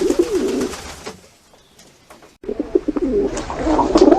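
Pigeons cooing in low, warbling phrases. There is a brief spell of cooing at the start and a lull, then steadier cooing from about halfway through.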